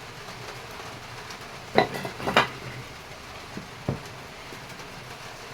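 A few sharp metallic clinks and knocks of engine parts and tools being handled: a cluster about two seconds in and two lighter taps near four seconds, over a steady background hiss.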